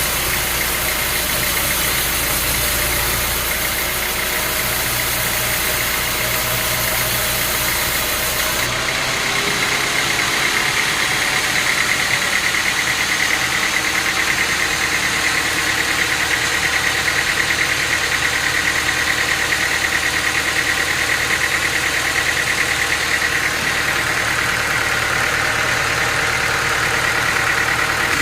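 Engine-driven machinery running steadily. The sound changes abruptly about nine seconds in, then goes on with a steady higher-pitched whine over the engine.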